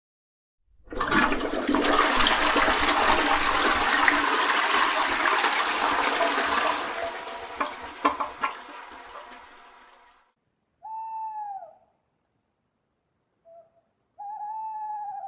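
A toilet flushing: a loud rush of water that fades away over about nine seconds. It is followed by an owl hooting twice, each hoot about a second long with the pitch rising and falling.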